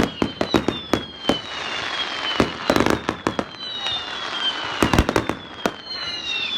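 Fireworks going off: many sharp bangs and crackles in quick, irregular succession, with several high whistles that slide slowly down in pitch.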